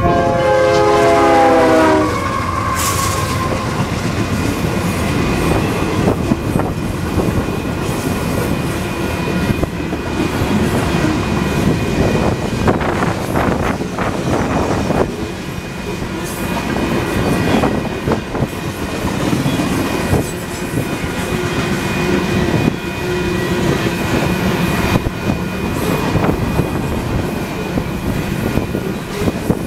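Union Pacific diesel freight train passing close by. The lead locomotive's air horn sounds a chord that drops in pitch as it goes past and stops about two seconds in. Then comes the steady rumble and clatter of the freight cars' wheels rolling over the rails.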